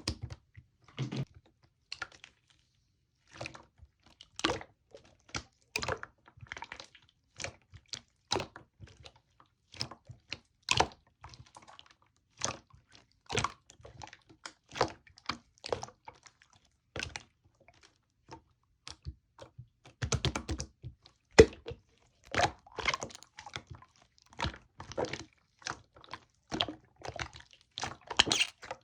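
Clear slime being squished and pressed by hand, giving irregular sharp pops and clicks from trapped air, a few a second with short pauses. A denser, louder run of crackling comes about twenty seconds in.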